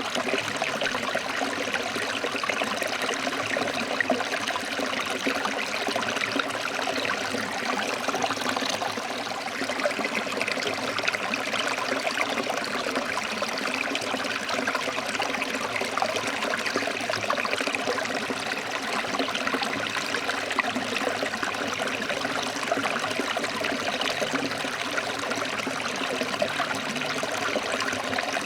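Forest stream flowing over rocks: a steady, even rush of water with a fine bubbling, trickling texture.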